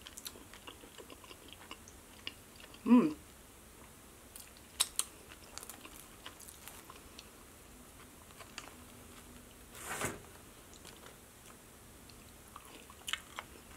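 Close-miked eating: chewing and small wet mouth clicks while eating a chicken Alfredo pizza bowl, soft chicken and cheesy sauce in a bread crust. About three seconds in comes one loud, short hummed 'mm', and around ten seconds a short breathy sound.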